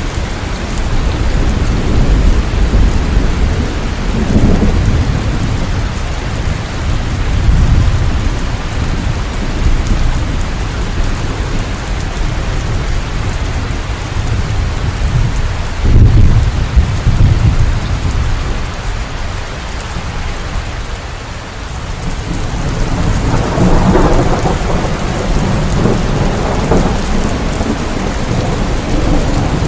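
Steady heavy rain with rolling thunder rumbling several times, the loudest swell about halfway through.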